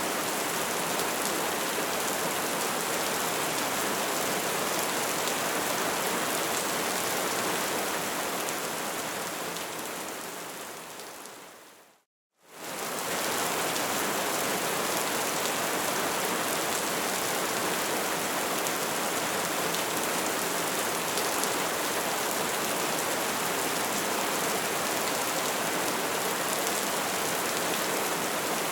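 Steady crackling and hiss of a burning bonfire. About ten seconds in it fades away to a moment of silence just past twelve seconds, then comes straight back at full level, like a loop being restarted.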